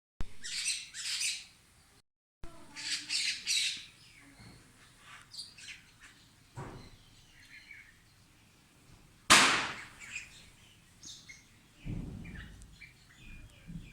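Birds calling in short bouts of high chirps, busiest in the first four seconds, with a brief dropout to silence about two seconds in. A single loud, sharp sound comes about nine seconds in.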